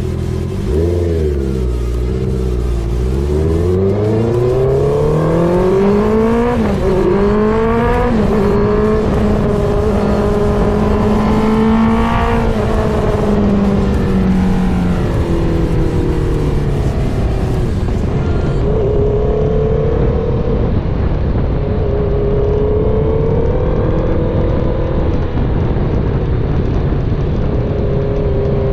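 Honda CBR650R's inline-four through an aftermarket full exhaust, accelerating hard with the pitch climbing and dropping sharply at each upshift, then holding a steady cruising note with small rises and falls.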